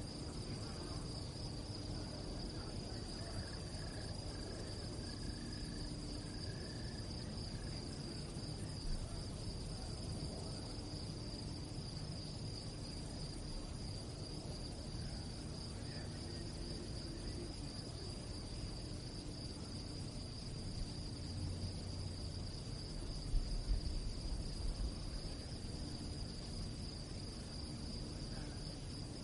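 Crickets singing in a steady, high, finely pulsing chorus over a low rumble, with a few soft low bumps about three quarters of the way through.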